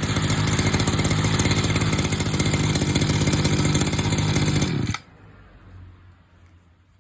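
Stihl FS24 brush cutter's small two-stroke engine running steadily, then stopping abruptly about five seconds in as it is switched off.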